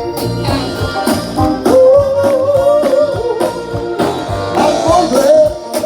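Live soul band playing with a steady beat, a singer holding a long wavering note between sung lines.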